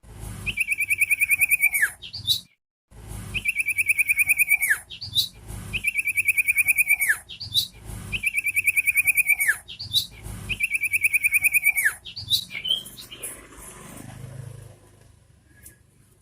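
Common iora singing: five times in a row it gives a fast, loud trill of about two seconds that ends in a quick falling note. Softer, scattered chirps follow near the end.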